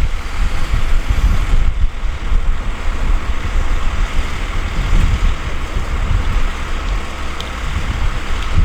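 Diesel earthmoving machinery running steadily, with wind buffeting the microphone in irregular low gusts.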